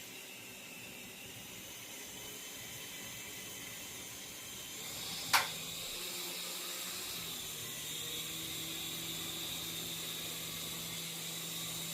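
Small toy RC helicopter's electric motor and rotor whirring steadily, a faint hiss with a high whine. A single sharp knock about five seconds in, after which a low hum joins the whir.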